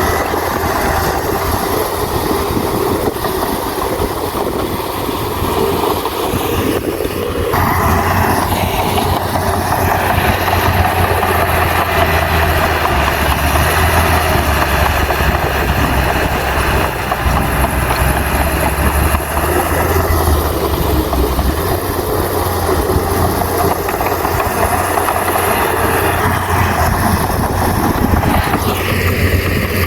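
Heavy diesel earthmoving machinery running under load, a continuous deep engine note. The sound shifts abruptly about seven seconds in and again near the end.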